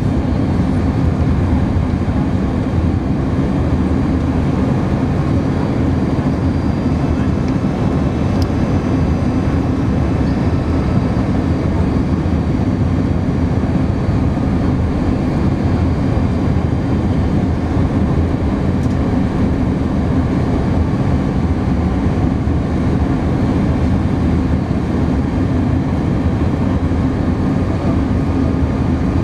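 Steady cabin noise inside an Airbus A310-300 airliner in flight: the even rumble of engines and rushing air, with a steady low hum running under it.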